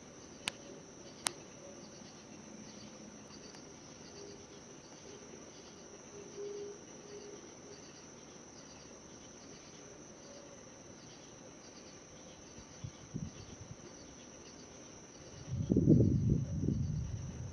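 A steady chorus of crickets and other night insects, in a high pulsing band. Two sharp clicks come about half a second and a second in. Near the end a loud, low rumble of thunder sets in.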